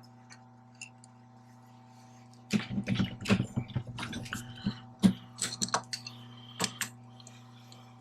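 Irregular clicks, clinks and knocks of metal hand tools and fittings being worked on machinery, starting about two and a half seconds in, over a steady electrical hum.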